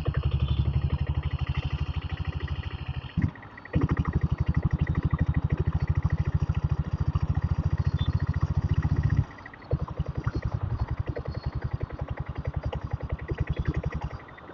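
Single-cylinder diesel engine of a Royal Enfield Bullet running under way, a fast even beat of firing pulses. The beat drops out briefly twice, about three seconds in and near two-thirds through, and runs lighter after the second break.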